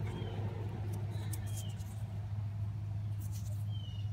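A truck engine idling with a steady low hum, under a few short, falling high bird chirps. Fingers rub dirt off a silver dime with brief soft rustles, about a second in and again near the end.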